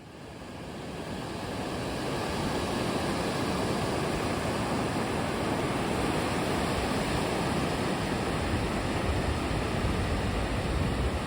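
Ocean surf washing onto a sandy beach, a steady rushing that fades in over the first couple of seconds.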